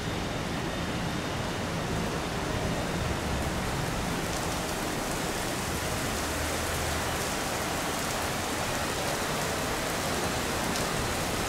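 Rain falling steadily in a downpour, an even hiss.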